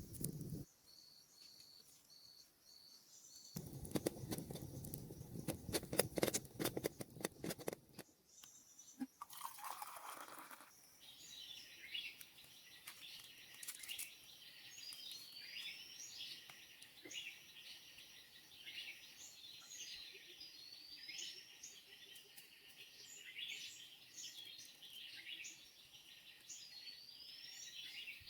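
Rainforest wildlife chorus of many short chirps and quick rising whistles, repeating steadily through the second half. Before it, a few seconds of close crunching and rustling starts about three and a half seconds in.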